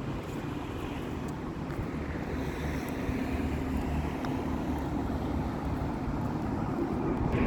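Wind buffeting the microphone: a steady low rumble of noise that grows a little louder near the end.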